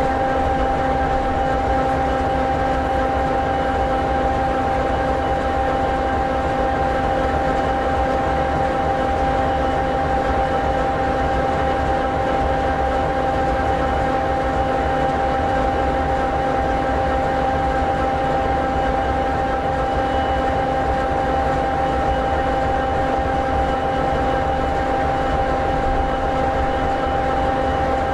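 EMD 16-710G3B sixteen-cylinder two-stroke diesel engine of an SD60E locomotive idling steadily: an even low rumble with a constant high hum over it.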